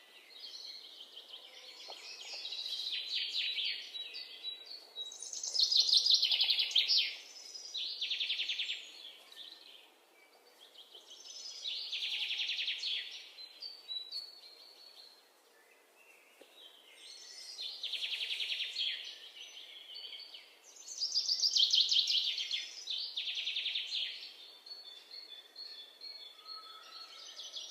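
Bird calls: repeated high, rapidly pulsing phrases, each a second or two long, coming every few seconds over faint background hiss.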